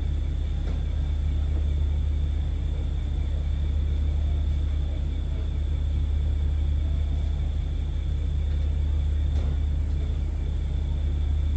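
Steady low rumble of a diesel train's engine running, unchanging throughout, with a thin steady high tone above it.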